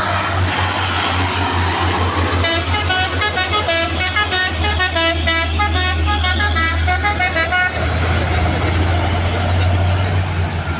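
A truck's multi-tone musical horn plays a quick melody of stepped notes for about five seconds, starting a couple of seconds in, over the truck's engine running steadily.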